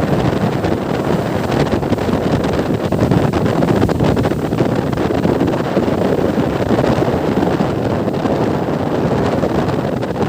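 Steady wind buffeting the microphone, with the rush of a moving boat underneath.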